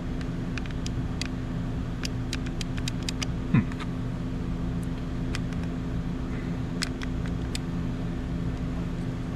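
A steady low mechanical hum, with scattered light clicks and taps and one sharper knock about three and a half seconds in.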